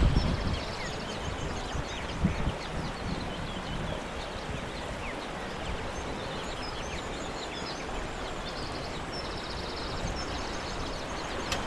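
Small birds chirping and trilling high over a steady rushing outdoor noise, with a few low bumps about two seconds in.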